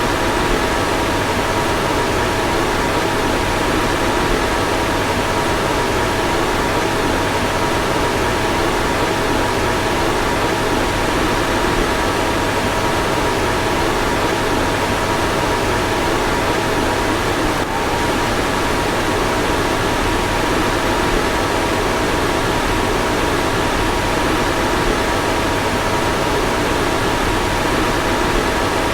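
Car fan running steadily: an even rushing hiss with two faint steady whining tones.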